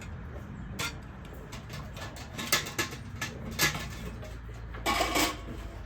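Hand milking: short, sharp streams of milk squirting into a pail at an uneven pace, several in quick succession near the end, over a low steady hum.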